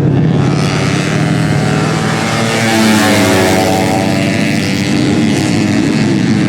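Tuned four-stroke 130 cc underbone race motorcycles running at high revs, one passing close about three seconds in. Near the end several bikes are heard at once, their engine notes rising and falling.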